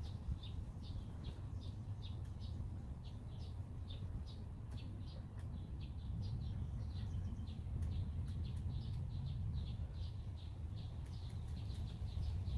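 A songbird chirping over and over, short high chirps about two or three a second, over a steady low rumble.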